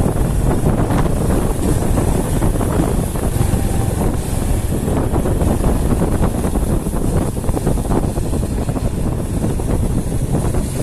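Wind buffeting the microphone over the steady rumble of a vehicle in motion.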